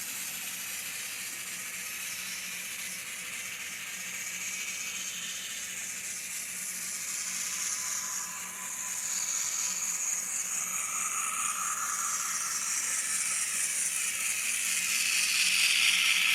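Electric model train running on its track: a steady hiss of wheels on the rails with a faint motor whine, growing louder near the end.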